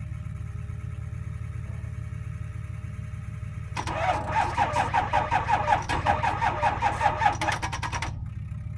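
Starter motor cranking a converted school bus's engine slowly and rhythmically for about four seconds, starting a few seconds in, then stopping without the engine catching: a weak battery after the bus has sat for days. A steady low hum runs underneath.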